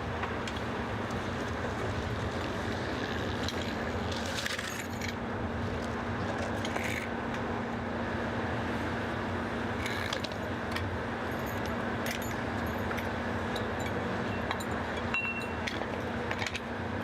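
Steady low hum of an idling truck engine over a noisy truck-stop background, with scattered light metallic clinks and clicks.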